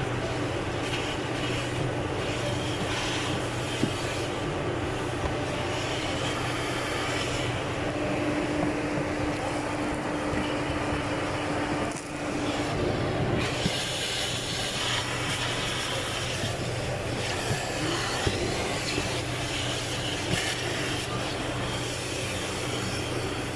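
Steady hum and hiss from inside a Mitsubishi Pajero's cabin, with a low tone held underneath. The hiss swells and fades in places, and there is a brief dip about twelve seconds in.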